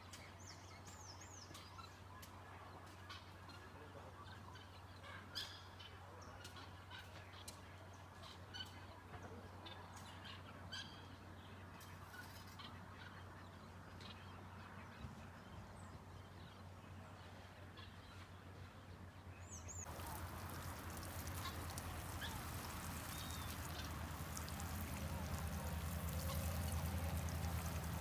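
Quiet rural ambience with a steady low hum and scattered faint clicks and short high chirps. About two-thirds of the way through it changes abruptly to a louder, denser outdoor background with birds calling.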